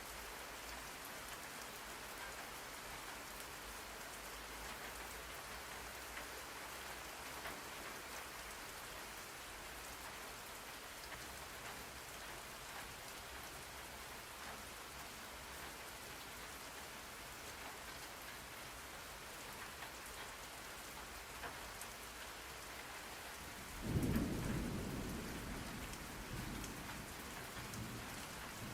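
Steady rain falling on surfaces. Near the end comes a sudden low rumble of thunder that fades out over a few seconds.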